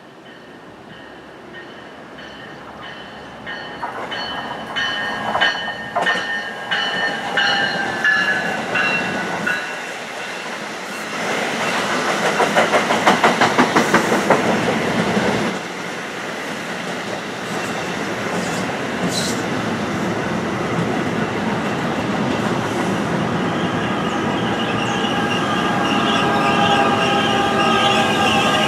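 Electric passenger train approaching and passing at speed. First come a set of falling tones and sharp clicks. About eleven seconds in there is a few-second burst of rapid wheel clatter over the rail joints, then a steady rumble with high whining tones that grows louder as the train rolls by.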